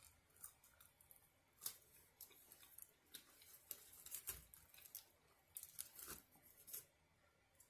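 Faint scattered clicks, rustles and tearing sounds of takeout food and its packaging being handled, in short bursts for about five seconds.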